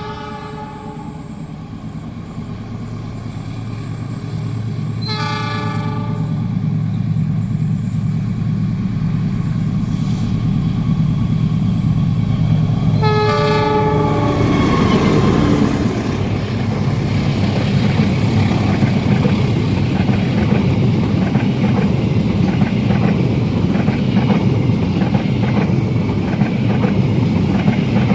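A locomotive sounding its horn three times as it approaches: a short blast at the start, another about five seconds in and a third about thirteen seconds in, with the horn's pitch dropping as it goes by. A rising rumble then becomes a loud, steady rumble with rapid wheel clatter as a long train passes at speed.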